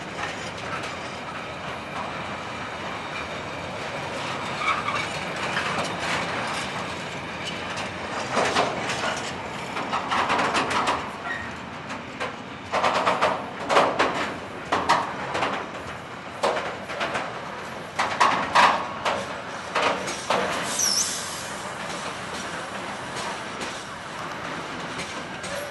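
Container wagons of an intermodal freight train rolling past: a steady rush of wheels on rails, turning into loud irregular clattering and clanking about eight seconds in, with a short high squeal near the end.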